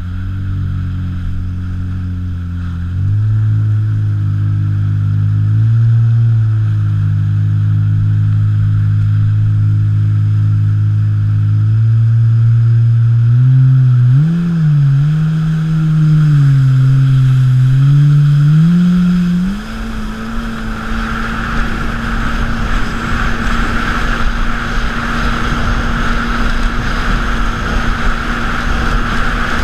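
Modified 220 hp jet ski engine running, its pitch stepping up and wavering with the throttle. About two-thirds through, the sound changes to a steady engine note under rushing wind and water as the craft runs at speed.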